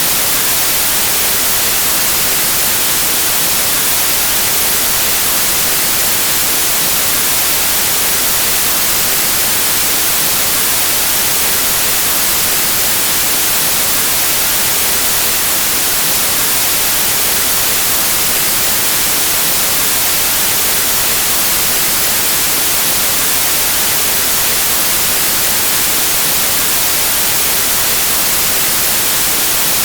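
Steady white noise: an even static hiss, loud and unchanging, strongest in the high frequencies.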